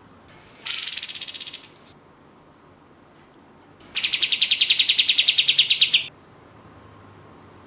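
Kapas tembak (katem) songbird calling: two bursts of fast, evenly repeated high-pitched notes, a short one of about a second and then a longer one of about two seconds.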